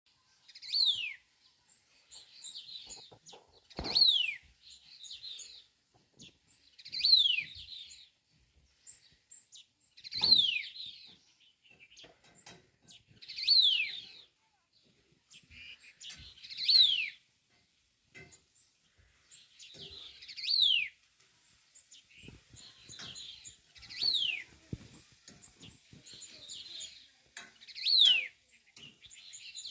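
A songbird repeating the same short phrase about every three and a half seconds. Each phrase has a clear whistle sliding down in pitch, with softer twittering notes between the phrases.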